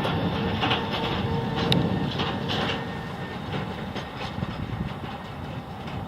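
Airliner rolling along the runway after touchdown: a steady rumble with irregular knocks and rattles. Faint steady tones die away about halfway through as the noise slowly eases off.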